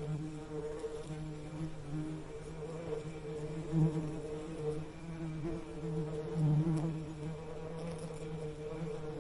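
Bees buzzing in a steady, low drone that swells louder about four seconds in and again a couple of seconds later.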